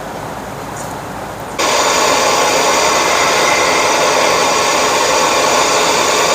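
A loud, steady hiss that starts suddenly about a second and a half in and holds even.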